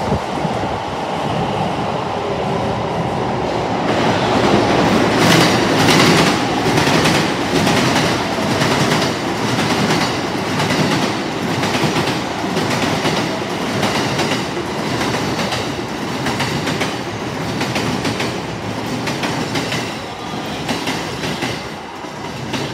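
JR commuter electric train in orange-and-green Shonan stripes running past on an adjacent track. From about four seconds in, its wheels clack over the rail joints in a steady rhythm of about two clacks a second, easing near the end.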